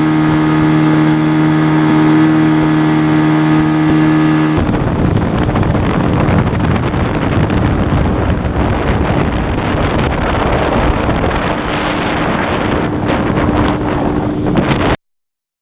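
Speedboat engine running at a steady pitch. A little over four seconds in, the sound switches abruptly to a rough rushing of wind on the microphone, with the engine hum still underneath, then cuts off shortly before the end.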